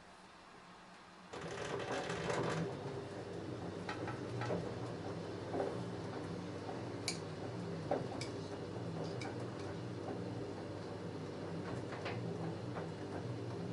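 LG F10A8HDS5 front-loading washing machine starting its drum turning about a second in after a quiet pause, then running steadily with a load of jeans tumbling and scattered clicks and knocks.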